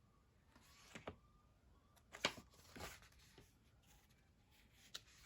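Faint handling of a sticker book and its paper sticker sheets: a few soft, scattered rustles and ticks over near silence, the clearest about two seconds in.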